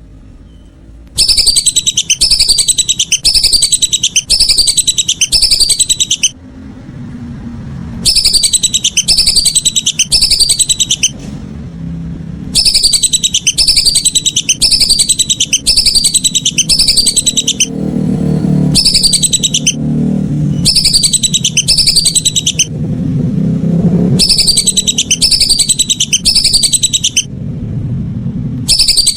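Lesser whistling duck calls: loud bouts of high, descending whistled notes, about two a second, each bout lasting a few seconds with short breaks between. A low rumble fills the gaps.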